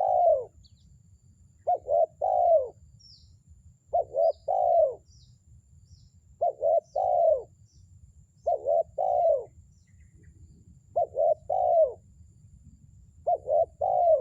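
Spotted dove (terkukur) cooing its territorial call: two short coos followed by a longer, falling coo, the phrase repeated steadily about every two seconds. Faint high chirps of small birds come between the phrases.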